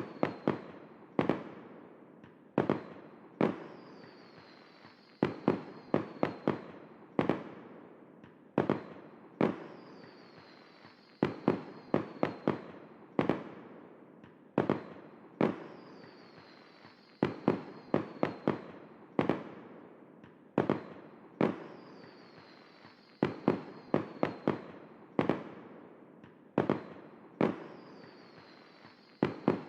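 Aerial fireworks shells bursting: dozens of sharp booms at uneven intervals, often in quick clusters of two to four, each echoing away, with a thin high fizz trailing after some bursts.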